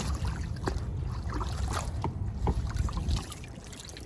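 Water dripping and trickling off a wet haul just pulled up from the lake on a fishing magnet, in short scattered drips, over a low rumble that drops away about three seconds in.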